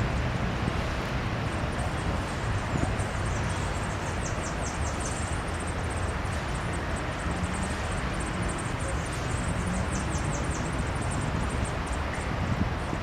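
Birds in a nest chirping at feeding time: runs of very rapid, high-pitched, downward-sliding chirps, with short pauses between runs, over a steady background hiss and rumble.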